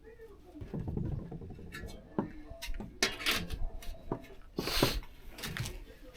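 Sheet-metal stovepipe parts being handled and fitted: a run of irregular knocks and clanks with dull thuds, and a short scraping rush near the end.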